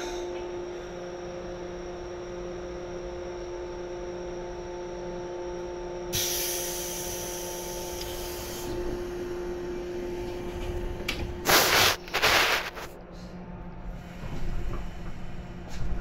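Inside a JR 415 series electric train: a steady electric hum from the train's equipment, with a hiss about six seconds in that lasts a couple of seconds. Two loud, brief noises come close together near the twelve-second mark, after which the hum's main tone is gone.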